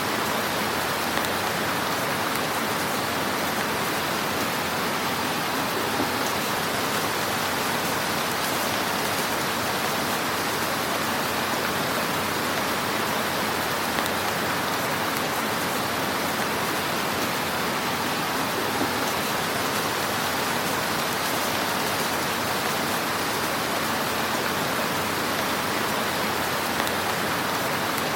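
Wood fire crackling in a fireplace: a steady, dense hiss with a few sharper pops scattered through it.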